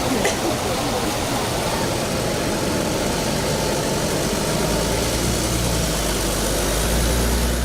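A vehicle engine idling, a steady low hum that grows stronger about halfway through, over a constant hiss of background noise.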